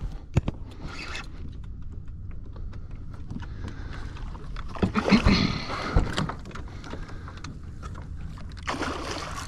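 Knocks and bumps against a plastic fishing kayak, with a few bursts of splashing water over a steady low rumble.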